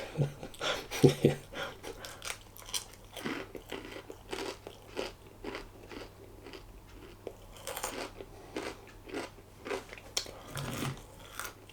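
A person chewing a mouthful of chicken and lettuce wrap close to the microphone: irregular crunching and mouth clicks all through.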